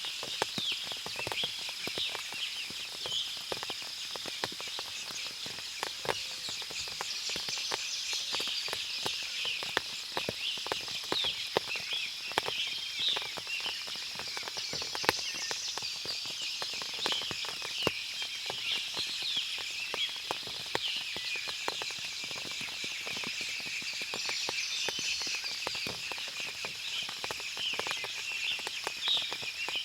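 Forest ambience after rain: many small birds chirping over a steady high-pitched drone, with scattered sharp ticks of dripping water.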